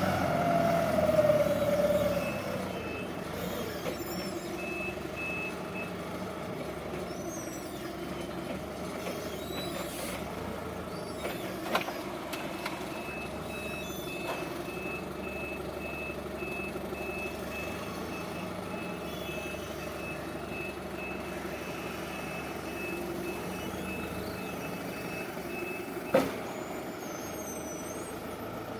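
Forklift reversing alarm beeping, first in short runs and then steadily for much of the time, over the steady hum of the truck's engine. A whine sounds in the first couple of seconds, and two sharp knocks come later, the louder one near the end.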